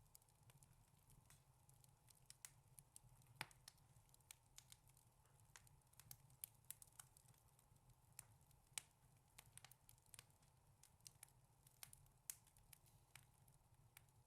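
Wood fire crackling in a fireplace: irregular sharp pops and snaps, several a second, over a soft low rumble of the flames.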